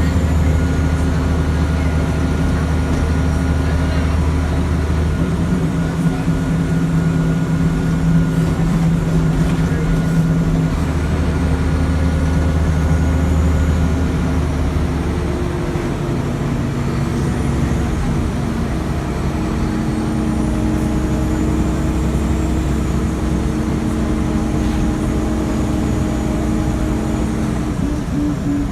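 Scania L94IB bus's diesel engine running through its ZF 5HP500 automatic gearbox, the engine note and whine shifting several times as the bus works through the gears.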